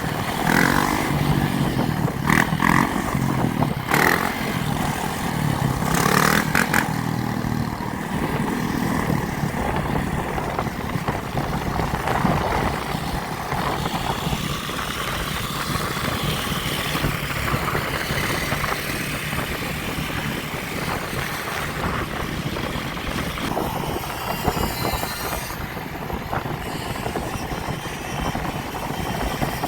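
Motorbike and dirt bike engines revving in the first few seconds, then a steady rush of riding noise.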